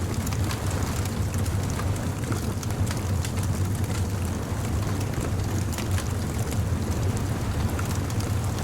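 Bonfire crackling in irregular small pops over a steady low rumble of beach ambience.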